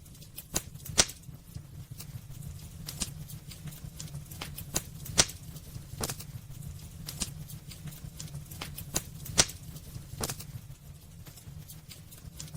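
Wood burning in a fireplace: irregular crackles and snaps, with a few louder pops about a second, five seconds and nine seconds in, over a low steady rumble of the flames.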